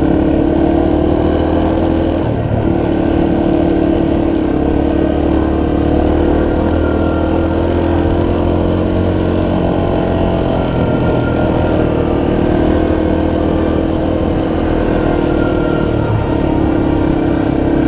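Dirt bike engine running steadily under way, with a noisy rush of wind and road behind it. The engine note breaks briefly about two and a half seconds in and again near the end.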